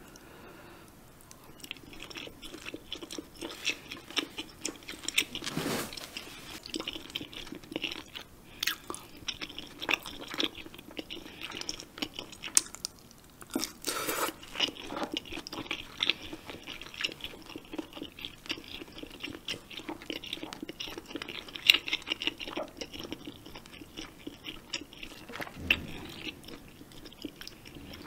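A person chewing mouthfuls of spicy jjamppong seafood noodle soup close to the microphone: many small clicking, wet mouth sounds, with a few louder moments.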